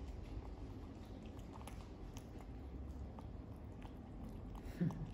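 Quiet chewing, with small clicks of food being eaten. A brief low voice sound comes near the end.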